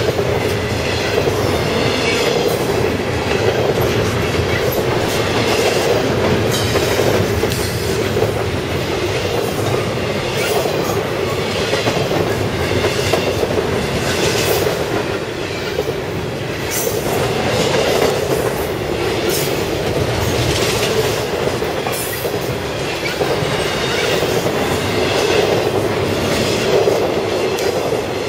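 Freight cars of a CSX intermodal train rolling past, a loud steady rumble of steel wheels on rail with irregular clacks as the wheels cross rail joints.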